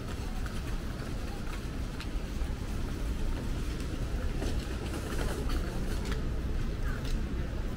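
Steady low rumble of city traffic, with faint scattered clicks.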